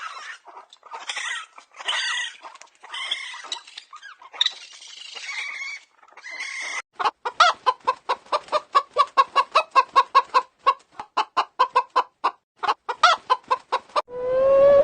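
Chickens clucking: a string of harsh, squawking calls, then from about seven seconds in a fast run of short clucks, about four or five a second. Near the end a different, whining tone cuts in.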